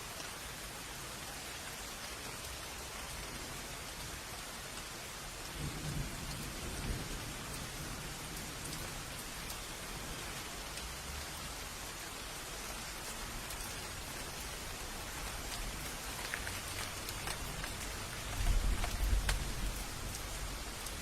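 Steady rain falling, with rolling thunder: a low rumble about six seconds in and a louder one near the end.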